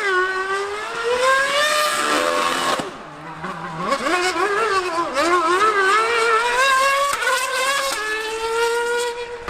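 High-revving race engine running on the circuit. The note climbs, then drops and quietens about three seconds in, climbs again with quick wavering changes in pitch, and holds steady near the end.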